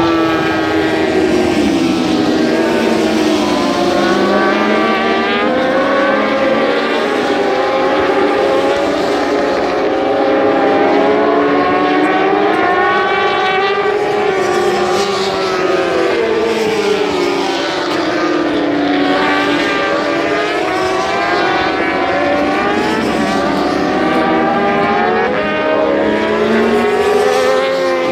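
Several motorcycle engines revving up and down at the same time, their overlapping pitches rising and falling without a break.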